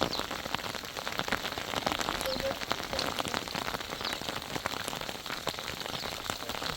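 Heavy rain falling, many separate drops striking a surface in a dense, irregular patter.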